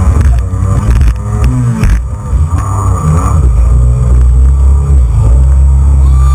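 Jet ski engine running hard, its revs rising and falling and dipping briefly about two seconds in, then holding steady and high for the last couple of seconds.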